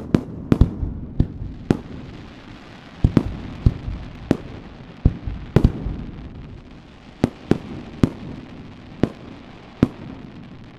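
Aerial firework shells bursting: a long irregular series of sharp bangs, often one to two a second, with rolling echo between them. The bangs thin out and the rumble fades near the end.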